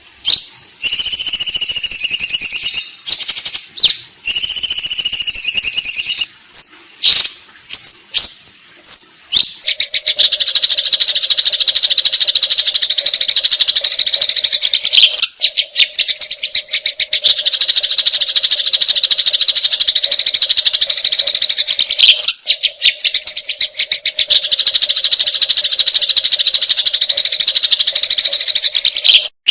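Sparrows calling: loud, repeated chirps, then from about ten seconds in a long, very rapid agitated chatter, the 'fighting' call, with a faint steady low tone under it and two short breaks.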